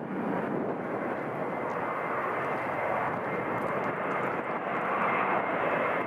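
Jet airliner engines running steadily: a broad rushing noise with a faint thin high whine over it, swelling slightly near the end.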